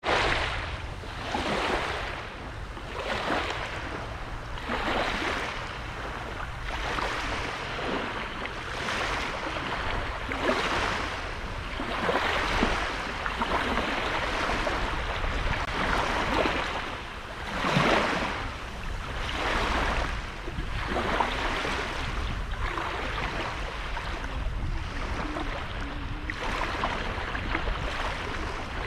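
Small sea waves breaking and washing ashore, surging again and again every second or two, over a steady low rumble of wind on the microphone.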